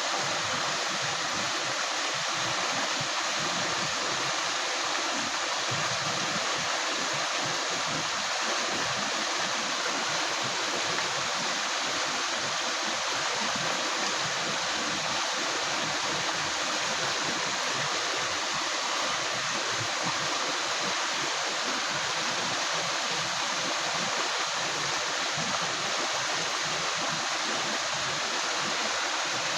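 Clear river water flowing and gurgling over rocks, a steady rush without a break.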